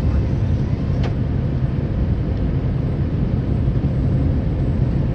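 Truck running on the road, heard from inside the cab: a steady low engine and road rumble, with one faint click about a second in.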